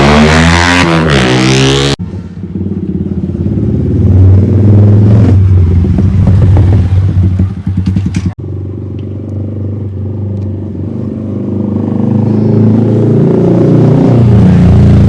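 Yamaha R15 BS6 motorcycle's single-cylinder engine and exhaust, heard in edited segments: a pass with the pitch sweeping over in the first two seconds, then the engine note building up twice, with sudden cuts about two and eight seconds in.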